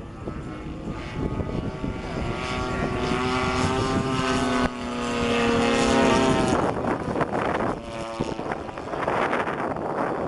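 Radio-controlled aerobatic model airplane flying past with its propeller and engine running at a steady high pitch. The sound builds over several seconds, is loudest a little past halfway, then fades away.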